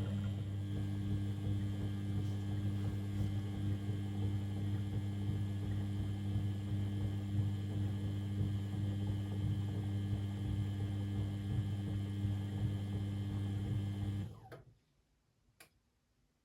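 Beko WML 71433 NP washing machine pump running with a steady mains-pitched hum. It cuts off about 14 seconds in, winding down briefly, and a single click follows.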